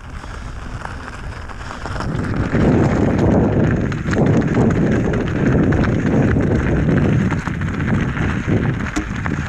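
Transition Sentinel enduro mountain bike riding over rough trail: tyre rumble and a rapid, uneven run of rattling knocks. It gets louder about two seconds in, with wind on the microphone.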